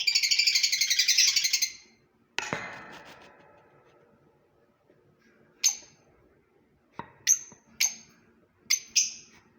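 Fischer's lovebirds chattering in a fast, dense burst for the first two seconds, then a sharp clink, then single short shrill calls, five or six over the last four seconds.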